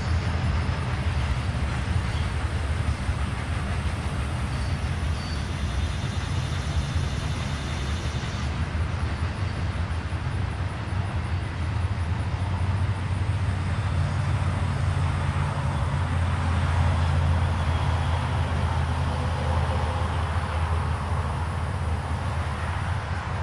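Intermodal freight train rolling past behind the trees: a steady low rumble of the container cars on the rails, swelling a little past the middle.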